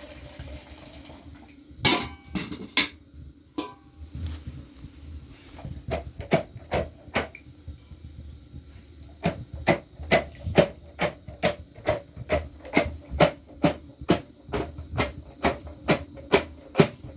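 Repeated sharp knocks: a few scattered strikes at first, then from about nine seconds in a steady run of about two strikes a second.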